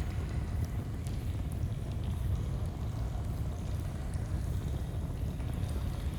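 Steady rushing of a flowing stream, with a few faint, scattered crackles of a campfire.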